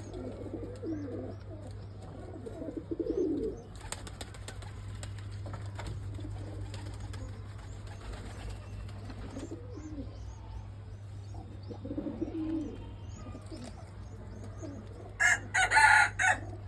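Domestic pigeons cooing, low rolling coos repeated in several bouts, over a steady low hum. Near the end come a few short, louder noisy bursts.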